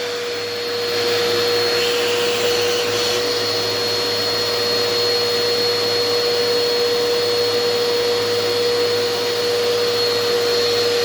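Eureka Power Speed vacuum cleaner running steadily, its motor giving a constant hum with a steady whine over a rush of air.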